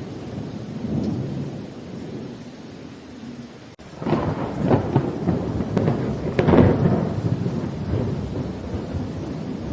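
Thunderstorm: rain falling with low rolling thunder, then a louder crackling peal of thunder about four seconds in that peaks around six and a half seconds.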